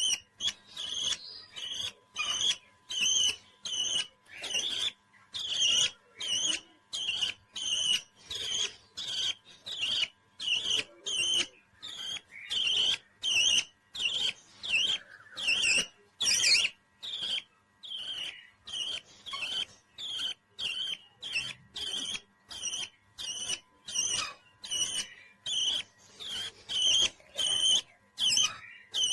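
A parrot calling in short, high chirps repeated nearly twice a second in an even rhythm.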